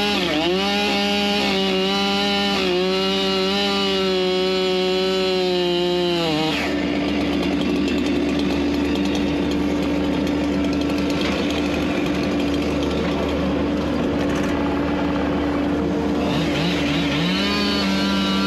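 Two-stroke chainsaw running at full throttle for about six seconds, then dropping back, and revving up again near the end. A second engine runs steadily underneath throughout.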